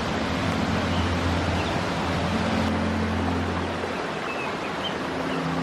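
Rushing stream water: a steady, even rush.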